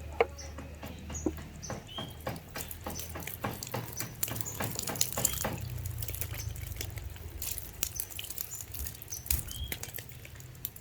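Birds giving short, high chirps again and again over a busy patter of small clicks and taps.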